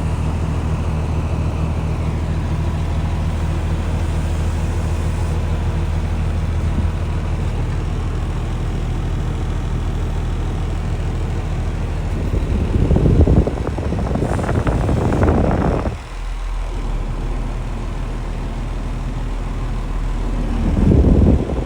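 PACCAR PX9 8.9-litre inline-six diesel of a Kenworth T370 dump truck running at a steady idle. About twelve seconds in, loud irregular bursts of rushing noise come over it for a few seconds, and again near the end.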